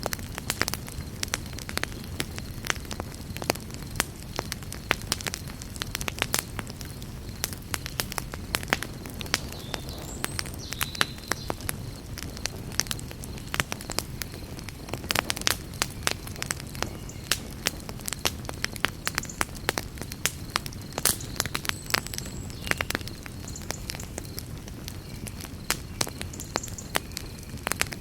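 Campfire crackling: irregular sharp pops and snaps over a steady low rumble of the burning wood, with a few faint high chirps now and then.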